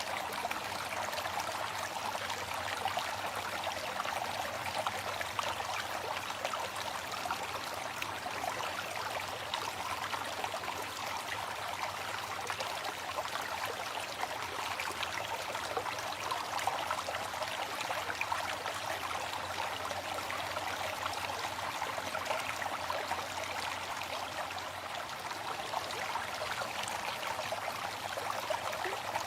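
Waterfall: a steady rush of falling water with dense fine splashing and little deep rumble.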